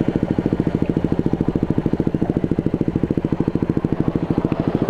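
Motorcycle engine running steadily while riding, with a fast, even pulsing beat.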